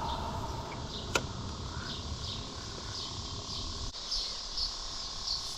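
Night insects chirping in short repeated calls, a few per second, getting louder in the second half, over a steady low rumble. One sharp click about a second in.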